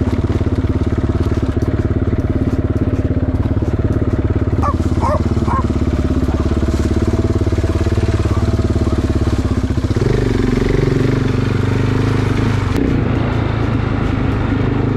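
Motorcycle engine running steadily on the move, its note dropping and getting heavier about ten seconds in.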